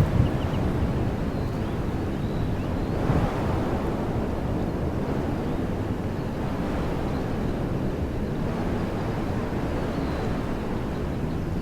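Wind blowing through woodland trees in a steady rush, swelling in a gust about three seconds in, with wind buffeting the microphone. Faint bird chirps sound a few times over it.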